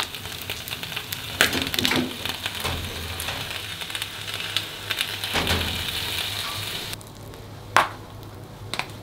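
Egg and bacon sizzling in a small metal camping pan, with a few light clicks as the pan is handled. The sizzle cuts off about seven seconds in; a single sharp metal clink follows near the end.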